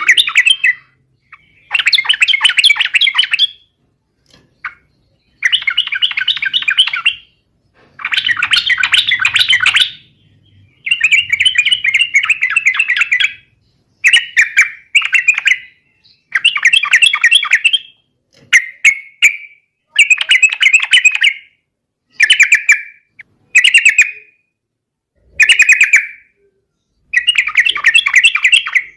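Yellow-vented bulbul (trucukan) singing in vigorous, rapid chattering phrases of one to two seconds each, repeated over and over with short pauses between them.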